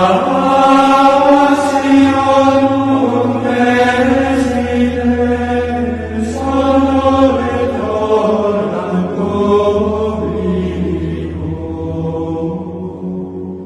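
Latin plainchant sung in long, slowly moving notes over a steady low drone.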